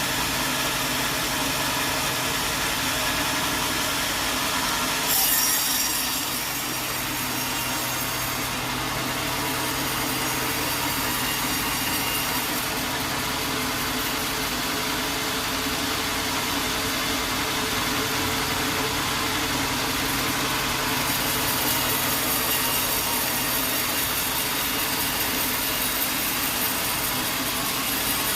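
Sawmill running steadily with its engine, its saw cutting through wood. A higher hiss comes in about five seconds in and again for the last third.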